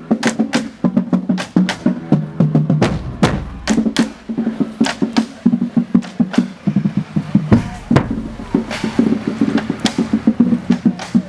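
Marching band playing: a drumline beating out quick, sharp strikes over low, held brass notes.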